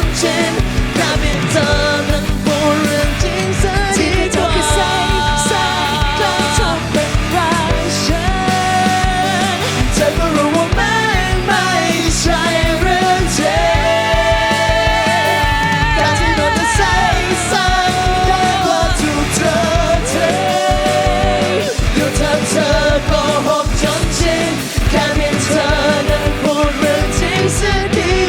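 A pop-rock band playing with a steady drum beat under a melody of long notes held with vibrato.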